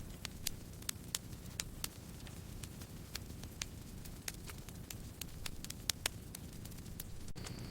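Campfire burning: wood crackling with irregular sharp pops over a low, steady rumble of the flames.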